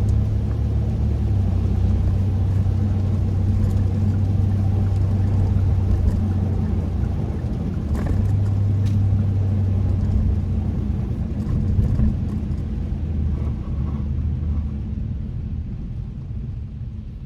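Kia K5 (DL3) car driving: a steady low rumble of engine and road noise, getting quieter over the last few seconds.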